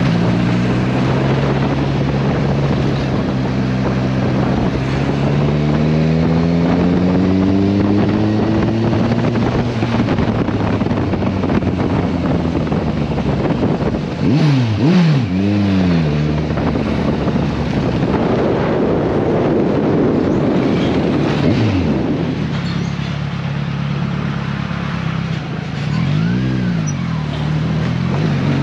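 Motorcycle engine running under way with wind rush, its pitch climbing steadily over the first several seconds as it accelerates. There are quick rise-and-fall pitch sweeps around the middle and again near the end.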